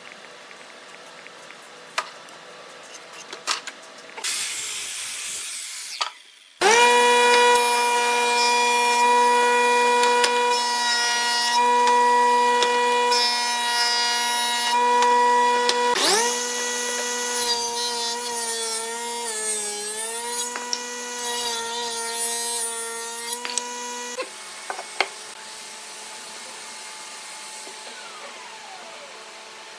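Electric woodworking power tool motor whining at a steady pitch. It spins up with a quick rise, stops and spins up again, and its pitch sags for a few seconds as it bites into the wood. Before it come a few light knocks and a short hiss.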